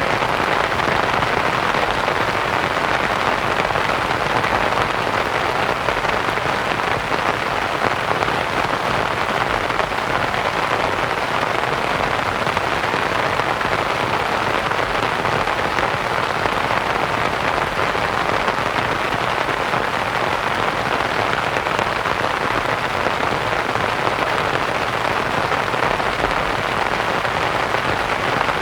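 Steady rain pattering on a canvas tent, blended with soft white noise into an even, continuous hiss.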